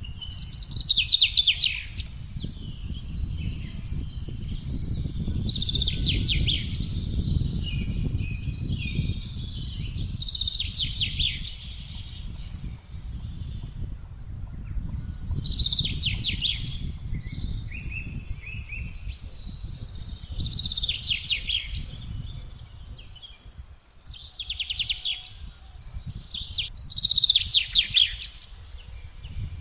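Songbird singing over wind: a short phrase of quick notes repeats about every four to five seconds, over a steady low rumble of wind.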